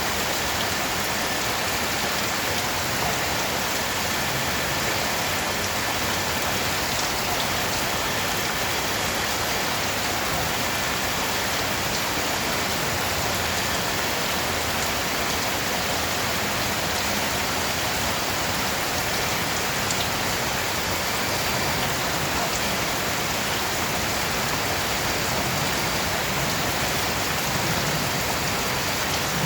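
Steady rain falling, an even hiss of drops on a surface with faint scattered drip ticks.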